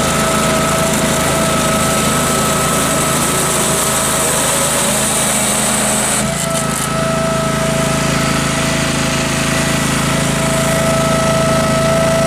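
Case 446 garden tractor's engine running steadily with the snowcaster drive engaged and slipping. The owner first took the slip for the belt, then puts it down to a sprocket slipping or a stretched chain. About halfway through, a high hiss drops out and the tone shifts slightly.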